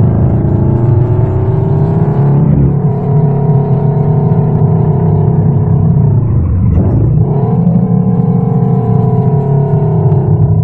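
Subaru BRZ's flat-four boxer engine heard from inside the cabin, accelerating with its pitch climbing. The pitch dips briefly about two and a half seconds in, drops sharply and climbs back around seven seconds in, then sinks slowly near the end.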